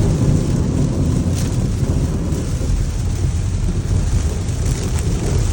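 Steady low rumble heard inside a car's cabin as it drives through standing water in heavy rain: water thrown up by the tyres drums on the underbody, with rain on the car and a few brief splashes.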